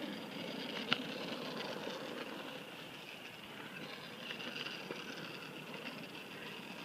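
Steady rolling noise of a small vehicle on pavement, with one sharp click about a second in.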